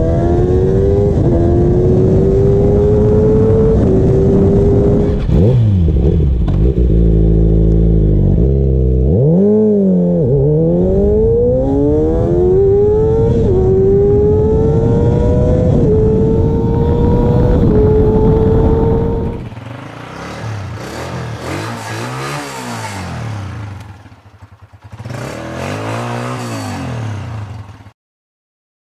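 Motorcycle engine accelerating hard through the gears in a 0–100 km/h run, the pitch climbing and dropping at each upshift. After about twenty seconds a quieter stretch of the engine revving up and down, cutting off abruptly near the end.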